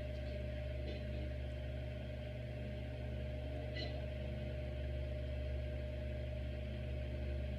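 Hampton Bay Grayton II 42-inch ceiling fan running: a steady motor hum with a thin constant whine. A brief faint high chirp comes about four seconds in.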